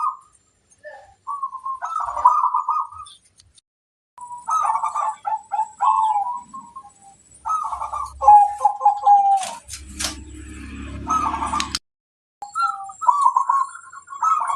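Zebra doves (perkutut) cooing in repeated phrases of short, stuttering notes. Between about ten and twelve seconds in, a burst of broad noise with a low hum joins the calls. The sound cuts out briefly just after that.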